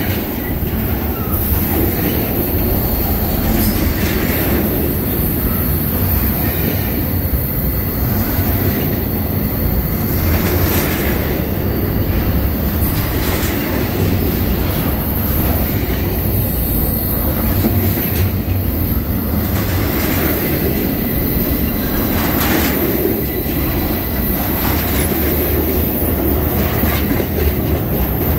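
Norfolk Southern intermodal freight train's cars rolling past close by: a steady heavy rumble of steel wheels on rail, with occasional sharp clacks and a faint thin wheel squeal.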